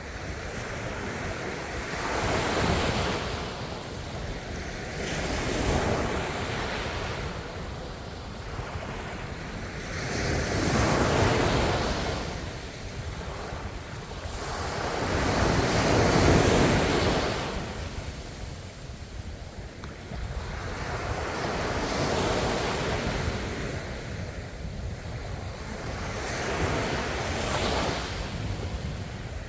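Ocean waves breaking and washing back, in about six slow swells that rise and fall every four to six seconds, the loudest about halfway through.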